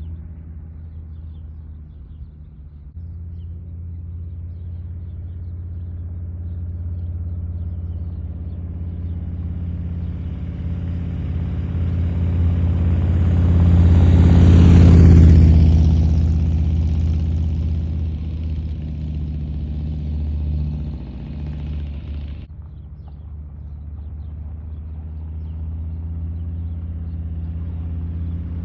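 Harley-Davidson Low Rider S Milwaukee-Eight 117 V-twin running through Cobra Neighbor Haters slip-on mufflers as the motorcycle passes by: the exhaust rumble builds as it approaches, is loudest about halfway through, then fades away. It drops off suddenly a few seconds later and slowly builds again near the end.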